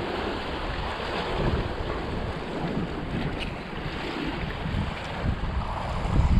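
Strong gusty wind buffeting the microphone, over the rush of waves breaking against a rocky shore.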